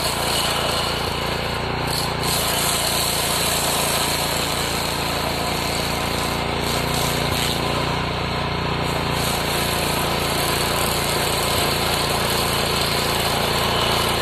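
Petrol-engine stump grinder running steadily at working speed, its cutter wheel grinding into wood with a dense, even noise.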